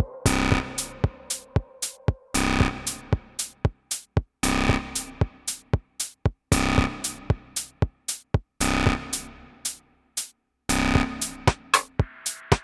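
Electronic techno music played on a drum machine and synthesizer. A long, full hit comes about every two seconds, with short clicking hits between, and the music drops out briefly about ten seconds in.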